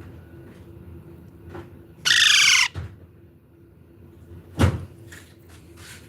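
A young parrot gives one loud, harsh squawk about two seconds in. A short thump follows a couple of seconds later.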